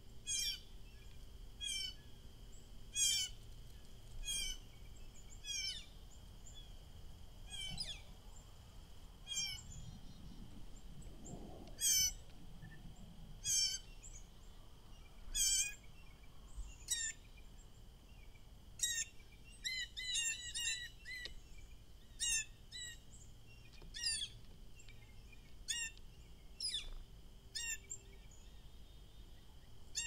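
Songbirds calling: short, sharp chirps that sweep steeply down in pitch, about one a second, bunched more closely around twenty seconds in.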